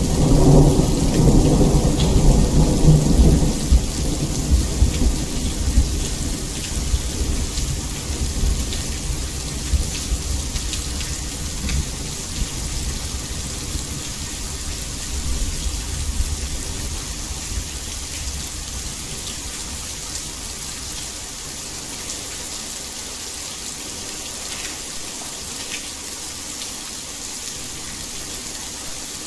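Heavy rain falling steadily, with scattered sharper drop ticks. A long roll of thunder is loudest in the first few seconds and slowly dies away over the next twenty or so.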